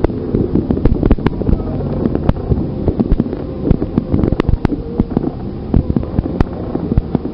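Wind buffeting a phone's microphone, with a heavy low rumble and irregular sharp clicks and knocks.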